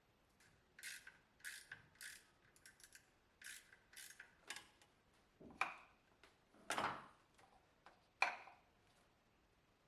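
Hand tools and metal parts being handled: a run of short, light metallic clicks and scrapes, then three louder clunks in the second half.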